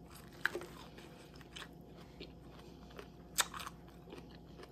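Close-up chewing and crunching of a mouthful of crisp salad, a few sharp crunches over quieter chewing, the loudest about three and a half seconds in.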